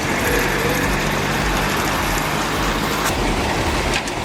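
Heavy vehicle engine running steadily under load, with a dense, even mechanical noise.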